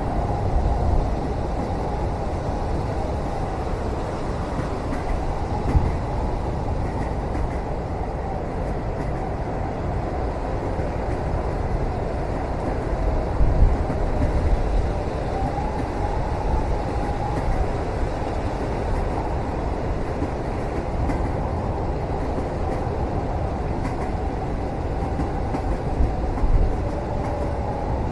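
Passenger train running, heard from inside a sleeper cabin: a steady low rumble with a faint wavering tone above it and a few louder knocks.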